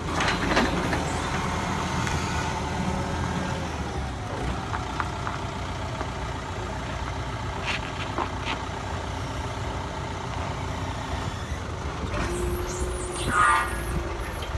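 Truck engine running steadily with a low rumble, with a few sharp clicks over it and a short steady tone near the end.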